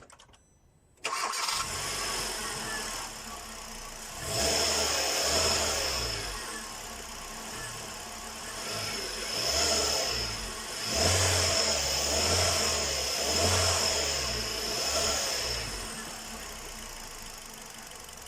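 Hyundai Solaris petrol engine started about a second in, then revved in about five short blips before settling to an even idle. It runs without the knock the owner had been chasing, leaving only the injector ticking.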